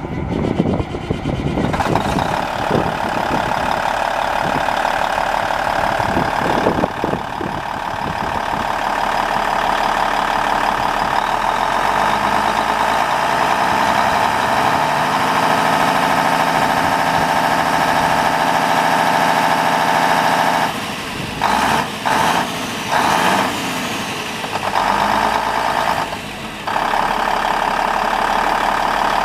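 Diesel engine of a 1998 Kenworth tandem-axle truck running steadily at idle. Its level drops briefly several times about three-quarters of the way through.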